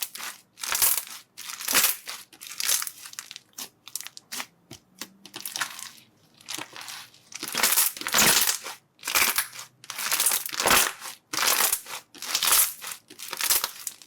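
Slime being worked: a run of short noisy bursts, about one to two a second, some coming in quick clusters.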